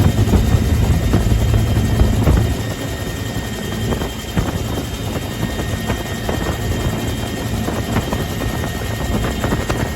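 UH-1H Huey helicopter in flight, heard from inside the cabin: a loud, steady rumble of the two-bladed main rotor and Lycoming T53 turboshaft, with a thin steady high whine over it. It is a little louder for the first couple of seconds, then settles.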